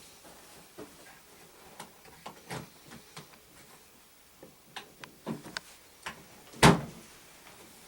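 Handling noises from laying on a hot compress: scattered light clicks and taps, with one sharp, louder knock about two-thirds of the way through.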